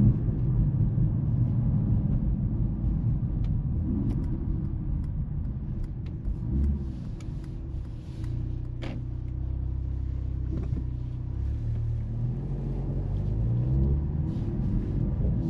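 Mercedes-AMG GLC 43's turbocharged four-cylinder engine and road rumble while driving. It holds a steady low drone for a few seconds in the middle, then rises in pitch as the car accelerates near the end, with one sharp click about nine seconds in.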